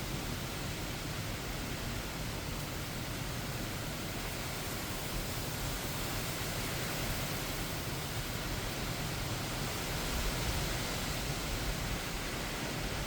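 Heavy thunderstorm rain and wind: a steady, even rush of noise with a strong low rumble of wind, swelling slightly about ten seconds in.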